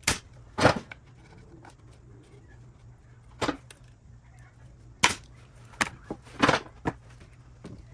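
Pneumatic pin nailer firing about seven times at uneven intervals, each shot a sharp pop, a few of them a little longer than the rest.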